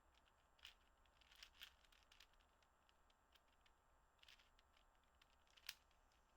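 Faint, scattered plastic clicks and snaps of a 4x4 puzzle cube's layers being turned by hand, a few separate turns with the sharpest click near the end.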